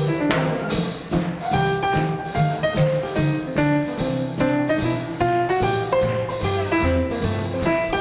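Live small-group swing band playing: sax, trumpet, piano, bass and drums, with low bass notes stepping steadily under held horn and piano notes and the drums keeping time on cymbals.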